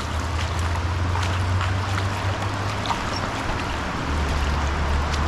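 Steady rush of flowing creek water with a deep low rumble under it, and a few faint clicks scattered through it.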